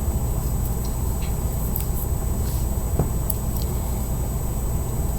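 Steady low background hum with a faint high whine, and a few faint light clicks and taps in the first few seconds, from small fingerboard parts being handled.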